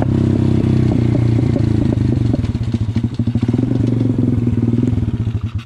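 A 150cc pit bike's single-cylinder engine running hard. From about two seconds in, the revs come down and the separate exhaust beats become distinct as the bike eases off.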